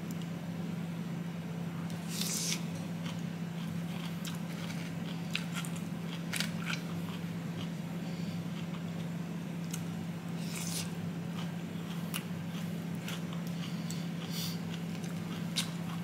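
Close-up eating sounds of coleslaw: moist chewing of shredded cabbage, with scattered short crunches and clicks, over a steady low hum.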